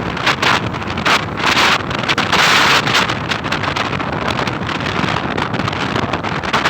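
Wind rushing over a motorcycle rider's microphone at riding speed, loud and uneven, surging in gusts.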